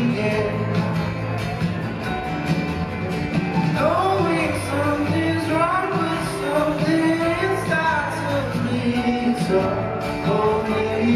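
Live pop song from a concert: a male lead singer holding and sliding through long sung notes over a full band backing.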